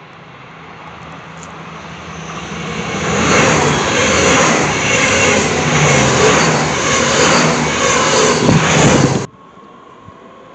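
Blue regional multiple-unit train approaching and passing close by. Its noise builds over about three seconds to a loud rush with regular pulses, then cuts off abruptly about nine seconds in.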